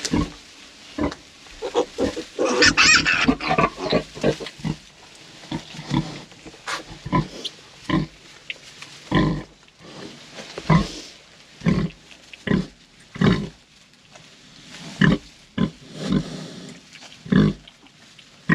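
A sow grunting over and over in short, low grunts, about one a second. About two seconds in comes a louder, shriller squeal lasting a couple of seconds.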